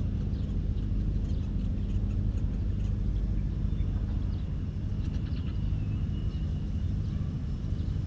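Steady low rumble with a humming drone, with faint high-pitched chirps of small birds over it.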